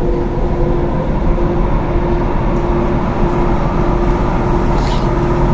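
Thessaloniki Metro train running between stations, heard from inside the car: a steady rumble of wheels on rails with a steady tone above it.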